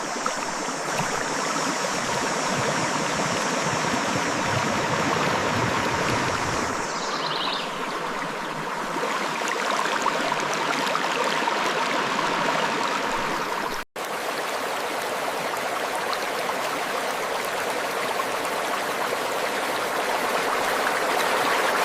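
River water flowing and rushing steadily over rocks, a constant full wash of water noise. It cuts out for an instant a little past halfway.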